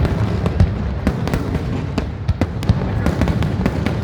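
Fireworks display: many quick, irregular cracks and bangs, several a second, over a continuous low rumble of distant bursts.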